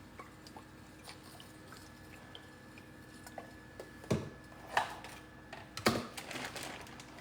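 Faint scattered ticks and clicks of cookware being handled at the stove as oil goes onto the pan, with three brief louder knocks about four, five and six seconds in.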